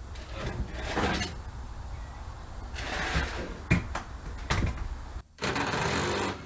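A few sharp metal knocks and clunks, with a short scraping noise between them, from handling parts on a stripped truck chassis.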